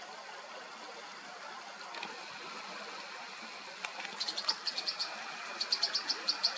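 American dipper giving quick runs of short, high, sharp calls, several a second, starting about four seconds in, over the steady rush of a mountain stream.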